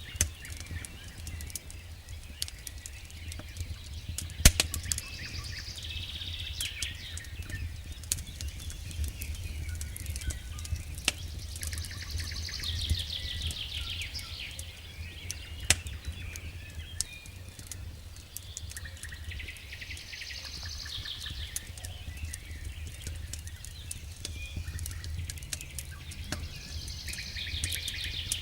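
Wood fire burning in a fireplace: irregular crackles and sharp pops from the burning logs over a low steady rumble, the loudest pops just after 4 s in and near 16 s in. A higher rapid fluttering sound comes and goes every several seconds.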